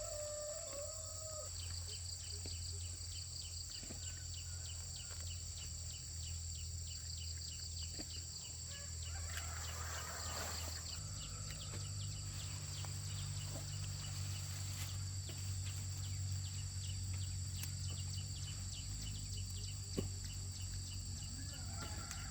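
Steady high-pitched drone of insects such as cicadas or crickets, with a fast, regular chirping over it for much of the time and a steady low hum underneath.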